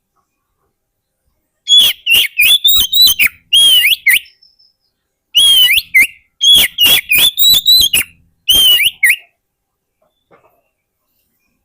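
Oriental magpie-robin (kacer) singing: loud phrases of quick, sliding whistled notes in several bursts with short pauses, starting a couple of seconds in and stopping after about nine seconds.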